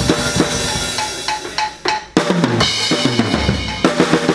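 Rock band rehearsing: a drum kit playing loud with crashing cymbals over sustained guitar notes. A little past halfway the part changes, with low notes sliding downward, before a steady drum beat comes back near the end.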